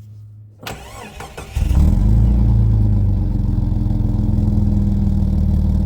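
A 2003 Jeep Cherokee's engine is cranked by the starter for about a second, catches about one and a half seconds in, and then runs loud and steady at a fast idle. This is a cold start after three years of not running.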